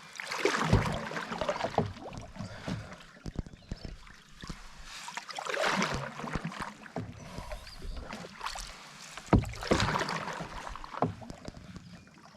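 Single-blade paddle strokes pulling through the water beside an Esquif Echo 14 solo canoe: three swishing strokes about four seconds apart, with a few light knocks.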